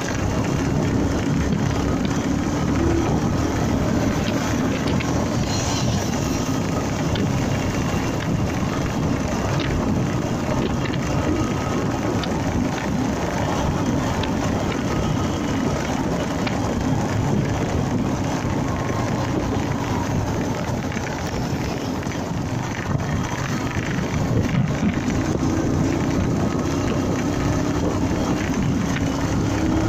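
Honda MegaPro motorcycle riding along: its single-cylinder engine runs under steady wind and road noise, and the engine note climbs in the last few seconds as it speeds up.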